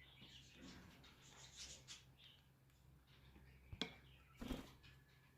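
Faint scratching and rustling with two sharp clicks a little under a second apart near the end, a pet parrot's beak and claws working at its food.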